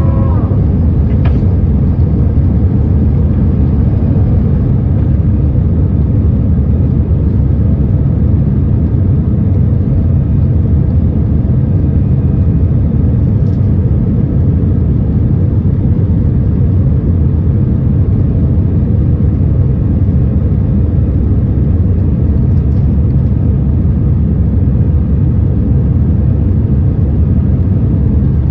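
Airbus A319 cabin noise during take-off: a loud, steady rumble of the jet engines at take-off power, heard from a window seat.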